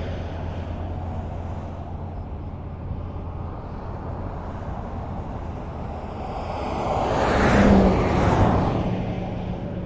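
Highway traffic: a steady low rumble of road noise, with one vehicle passing close by, swelling and then fading about three-quarters of the way through.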